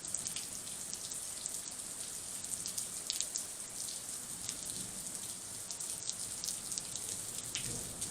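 Rain falling steadily in a thunderstorm, a constant hiss with many separate drops ticking close by.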